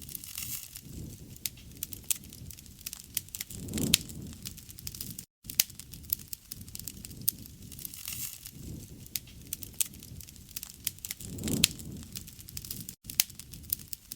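Wood fire crackling, with many sharp pops over a low rush of flame that swells twice, about four seconds in and again near the end. The sound drops out briefly twice.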